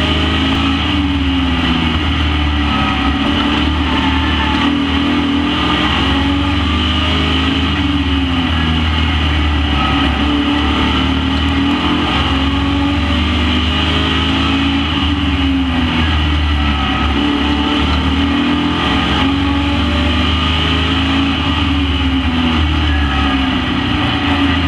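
Racing trucks' engines running hard around a short oval, their pitch rising and falling over and over as they accelerate and lift.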